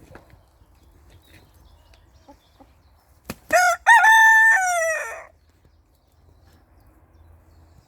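Barnevelder rooster crowing once, a cock-a-doodle-doo of about two seconds that starts with short notes and ends on a long held note that falls away.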